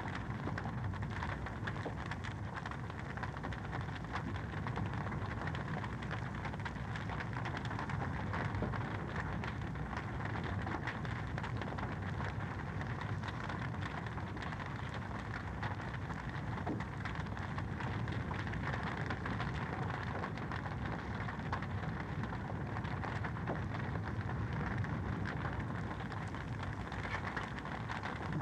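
Wood fire in a fireplace crackling steadily: a dense run of small pops and snaps over a continuous low rushing hiss.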